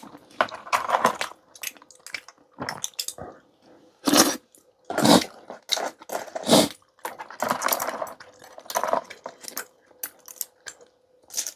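Clam shells clinking against the bowl and utensils in a bowl of clam kalguksu: an irregular series of short clinks and clatters.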